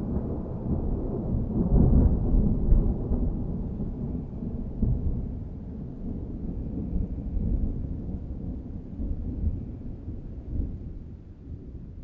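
Rolling thunder rumbling, loudest about two seconds in and slowly dying away.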